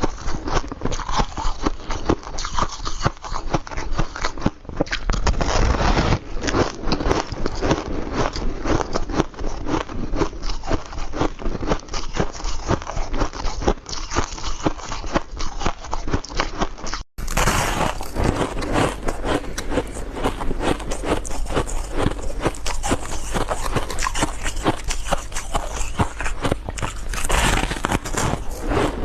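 Refrozen powdery ice being bitten and chewed close to the microphone: a dense, continuous run of soft crunches. The sound cuts out briefly about 17 seconds in, then the crunching resumes.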